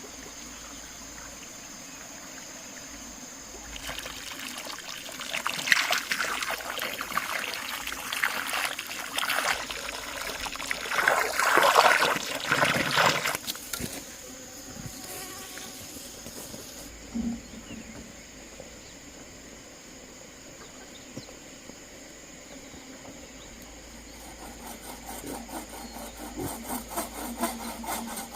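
Steady insect buzz. Between about four and fourteen seconds there is a stretch of loud rustling, scraping and splashing-like handling noise. Near the end a hand saw starts cutting wood in regular strokes.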